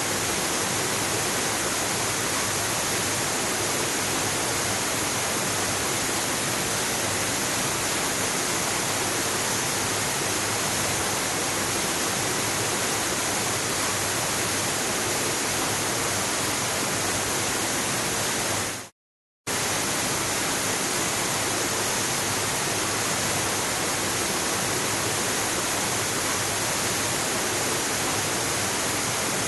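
Waterfall, a steady even rush of falling water. About two-thirds of the way through it fades out to total silence for about half a second, then returns abruptly.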